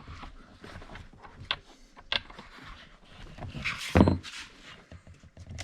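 Clicks and light knocks of a chainsaw's bar and chain being handled during chain-tension adjustment, with a short scrape and one louder metallic knock about four seconds in.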